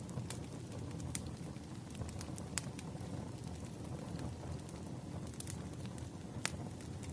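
Wood fire crackling: a steady low rumble of burning logs with scattered sharp pops, a few louder snaps standing out.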